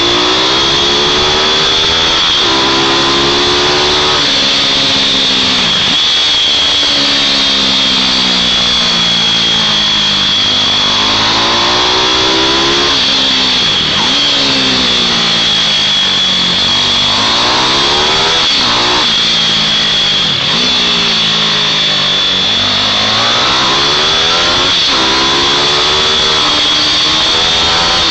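Small mini bike engines at racing revs, their pitch climbing and falling again and again as the bikes accelerate and ease off through the corners. Several times a bike passes close with a sudden drop in pitch, and a steady high whine sits over it all.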